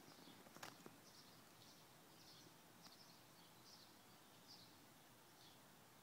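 Near silence: a faint outdoor background in which a bird chirps faintly and repeatedly, about once or twice a second. A soft click comes a little over half a second in.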